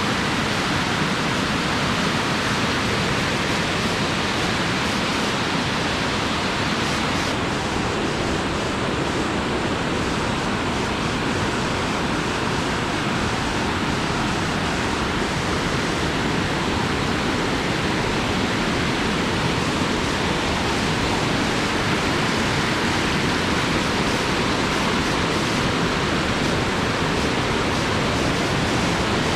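Waterfall rushing steadily, a dense, unbroken roar of falling water.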